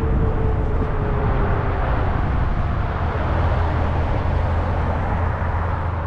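Steady rush of wind and rumble on the microphone while riding a Zota Zephyr 20-inch fat-tire e-bike, with a faint hum that fades out about two seconds in.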